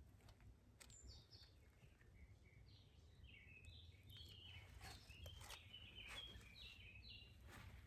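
Faint songbird chirping: a run of short, high, quick notes that grows busier in the second half, over a steady low background rumble.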